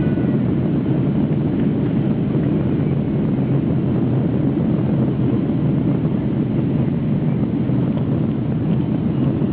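Steady rushing noise of a Boeing 737-800's CFM56 engines and airflow heard inside the passenger cabin during the landing, even and unchanging throughout.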